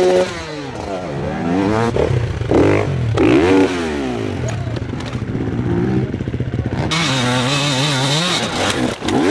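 Dirt bike engine revving in repeated bursts, its pitch rising and falling again and again, with a steadier stretch near the end.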